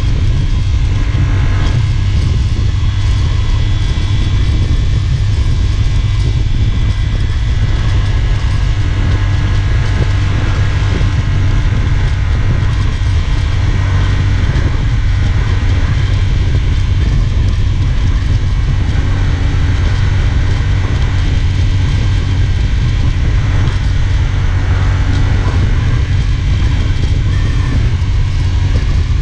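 CFMOTO 450SRS parallel-twin engine running at a steady, even pitch while the bike cruises.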